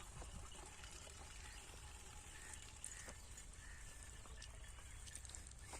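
Faint outdoor ambience: a steady low rumble with a few faint, short bird chirps.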